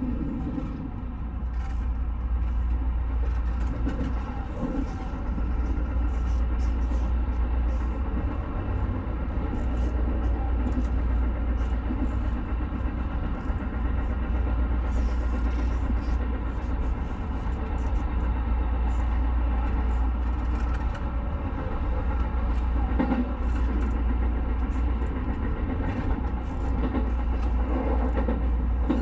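JR West 221 series electric train running, heard from inside at the front of the train: a steady low rumble of wheels on rail with motor hum.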